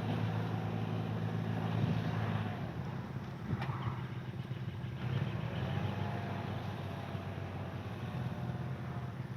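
An engine running steadily with a low drone, loudest in the first couple of seconds, with a single sharp click partway through.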